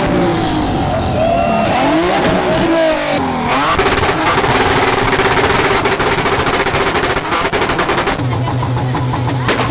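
Modified car engines revving up and down, then a long run of rapid pops and bangs from a two-step launch limiter, ending in a steady held engine note.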